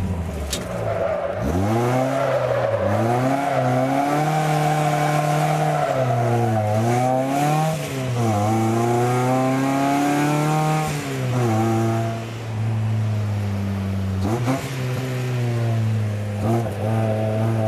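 MEV Replicar kit car's engine driven hard on a track, its pitch climbing under throttle and dropping back sharply several times as it changes gear and lifts for corners.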